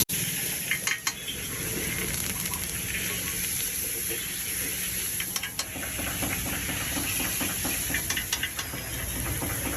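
Street-food cooking: a steady hiss of steam or frying, with a few sharp metal clinks of utensils against a pot, about a second in, in the middle, and near the end.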